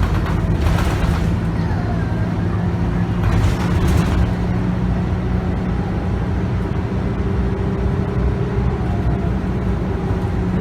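Scania K280UB bus heard from on board, its 9.3-litre five-cylinder Scania DC9 diesel and ZF Ecomat six-speed automatic running steadily with a faint whine over the engine hum. Two short hissing bursts come in the first half.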